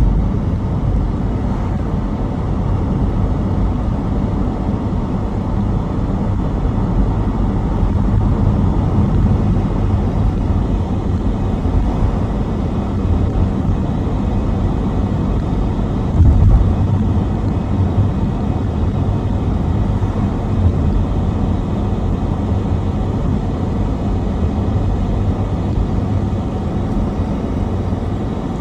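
Steady low rumble of a car driving, with a single louder thump a little past halfway.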